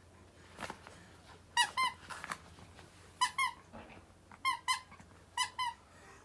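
Squeaky toy squeezed in quick pairs, four double squeaks about a second apart, with a little rustling before the first.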